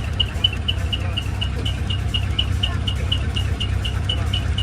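Large truck's engine idling with a steady low rumble, while a short high chirp repeats evenly about four times a second.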